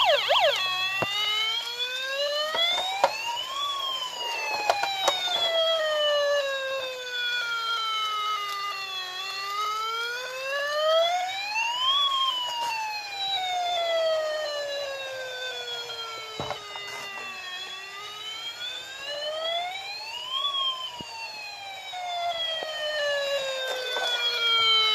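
Electronic police-siren sound effect from a Wen Sheng Windstorm Falcon bump-and-go toy police car, in a slow wail that rises for about three seconds and falls for about five, repeating. A few sharp clicks sound along with it.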